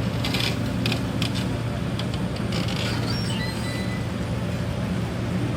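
Heavy machine's engine running steadily, with several short metallic creaks and squeaks in the first three seconds and a faint thin squeal a little later.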